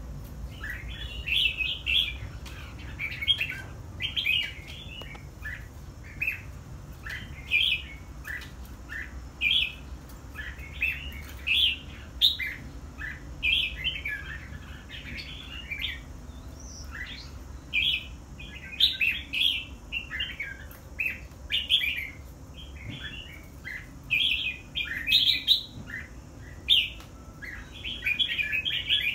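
Red-whiskered bulbul singing: short warbled phrases repeated every second or so, over a faint low hum.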